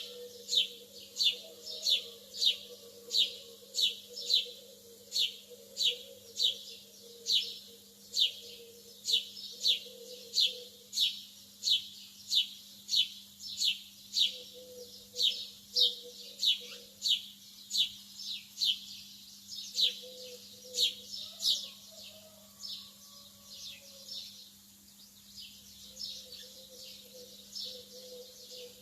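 Lovebird chirping one sharp, falling note over and over, about one and a half times a second, growing fainter over the last several seconds. A steady low hum runs underneath.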